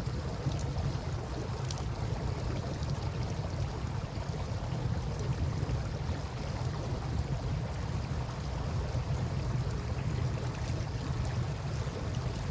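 Wood campfire giving off faint, scattered crackles over steady lapping river water, with a constant low rumble underneath.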